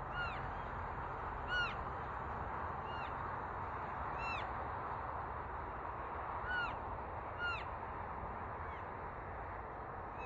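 Elk giving short, high-pitched calls that arch and fall in pitch, about seven of them one to two seconds apart, over a steady background hiss.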